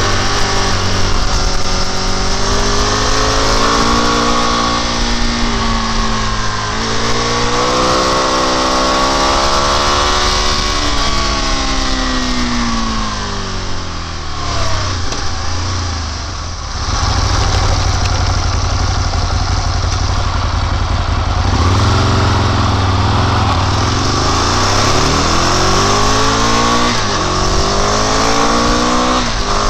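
Sport motorcycle engine accelerating hard through the gears, its pitch climbing and dropping at each shift and easing off for bends, with wind rushing over the microphone. The engine winds down around the middle and climbs again several times near the end.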